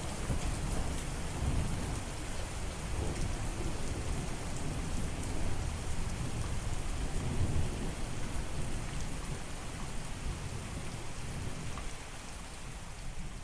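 Steady rain falling, with a low rolling rumble of thunder underneath that dies away near the end.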